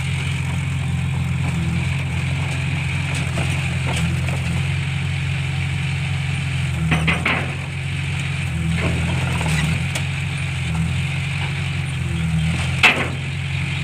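Heavy construction-machine diesel engine running steadily with a low drone. Two short, sharp noises cut through, one about seven seconds in and a louder one near the end.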